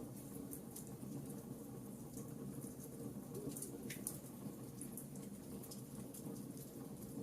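Wood fire in a fireplace crackling, with small irregular pops and snaps over a low, steady rumble of flame.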